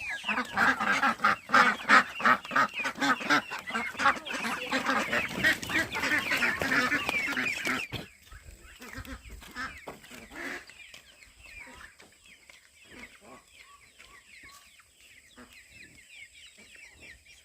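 A flock of farm poultry calling loudly in a dense, rapid chorus, then an abrupt drop about eight seconds in to fainter, higher chirping calls.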